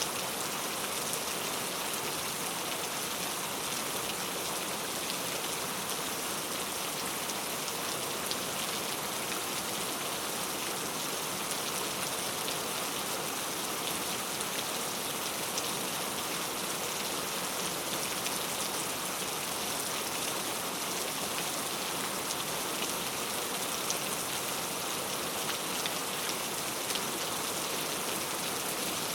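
Steady rain falling: an even, dense hiss with scattered small drop ticks.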